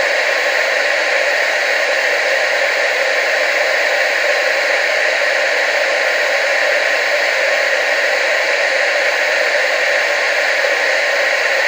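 Steady TV static hiss, an even rushing noise that is strongest in the mid and upper range and has almost no low end.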